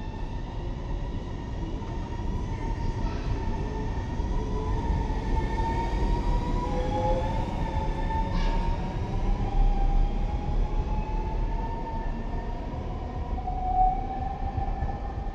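NSB electric multiple-unit train pulling out of an underground station. The wheels rumble on the rails under an electric whine whose pitch drifts up and down as it gathers speed. There is one sharp click about eight seconds in, and the sound eases off as the train leaves.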